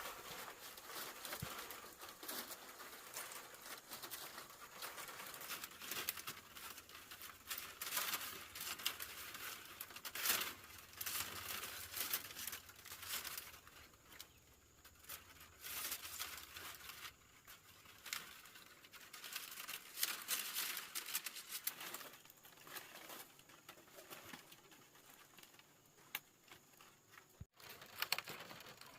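Irregular dry rustling and crackling of material being handled, in short uneven bursts with quieter gaps and no steady rhythm.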